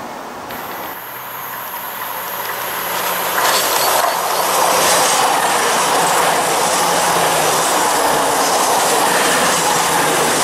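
East Midlands Railway Intercity diesel passenger train running through the station without stopping: a loud rumble of the coaches' wheels on the rails with a steady engine hum. It swells to full loudness about three and a half seconds in.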